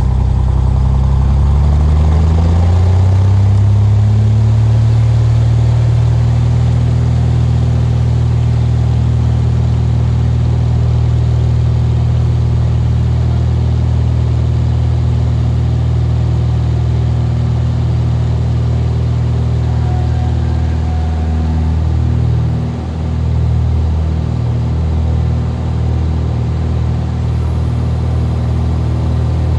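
Cessna RG's single piston engine and propeller running, the pitch rising over the first few seconds as power comes up, then holding steady at high power, with some wavering in the last third.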